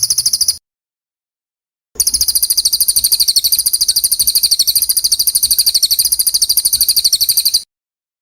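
A small songbird's high, rapid trill of about a dozen notes a second, held evenly. It sounds briefly, cuts out for over a second, then resumes for about five and a half seconds and stops abruptly.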